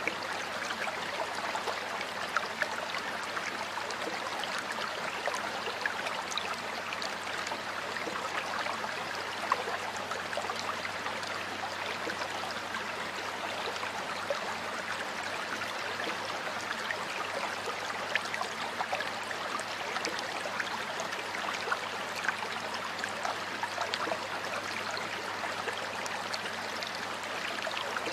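Stream water flowing and babbling steadily, with many small splashes and droplet ticks over a continuous rush.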